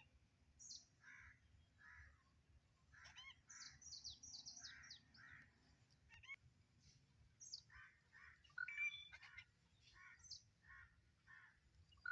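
Faint calls of several wild birds: a run of short calls repeated about twice a second, mixed with clusters of high, quick down-slurred notes.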